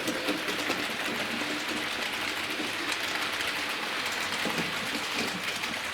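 Hornby model locomotive running on its track: a steady whirr of the small electric motor and wheels rolling on the rails, with faint light clicking.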